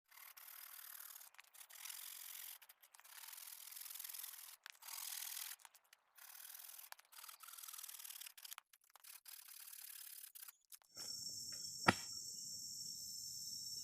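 A faint series of rough scraping strokes, each about a second long with short gaps between them. About eleven seconds in, this gives way to a steady high-pitched insect chorus, with one sharp click a second later.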